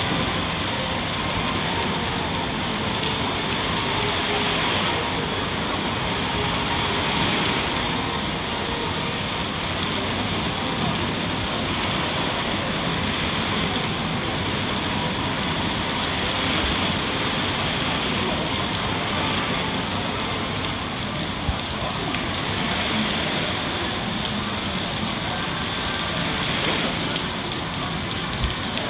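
Heavy rain falling steadily on paved street and pavement: an even, unbroken hiss of downpour.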